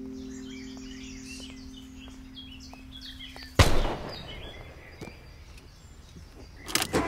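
Small birds chirping repeatedly over outdoor ambience, with a held music note fading underneath. The note is cut off by a single sudden loud bang about three and a half seconds in, and a few sharp knocks come close together near the end.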